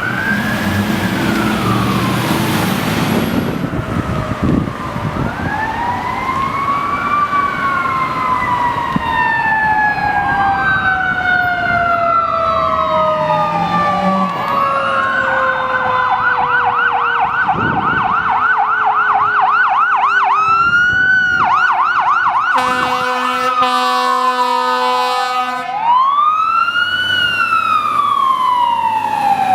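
Fire engine sirens on a code 3 response: electronic sirens cycling through a slow rising-and-falling wail and, about halfway through, a fast yelp, while a mechanical siren winds down in one long falling tone. Near the end comes a steady air horn blast lasting a few seconds.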